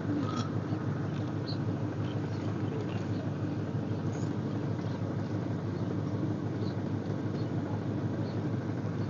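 A steady low rumble of noise that holds even throughout, with faint short high chirps scattered through it.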